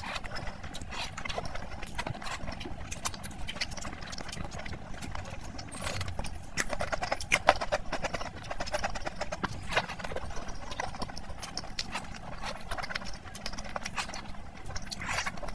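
Close-miked ASMR eating of mutton curry with luchi: wet chewing and lip smacking in a dense, irregular run of clicks as meat is bitten off a mutton bone and luchi is eaten soaked in gravy.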